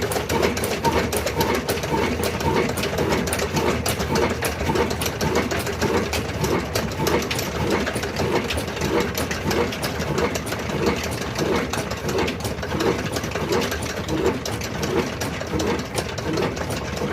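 Old stationary diesel engine running steadily with an even, regular beat.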